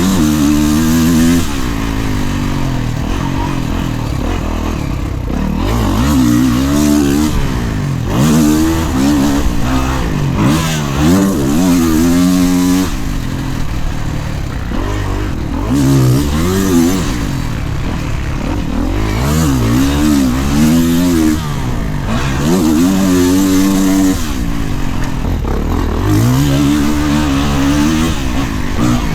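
Kawasaki KX450 dirt bike engine being ridden hard, the throttle opened and shut again and again. Its pitch climbs and drops over and over, every few seconds.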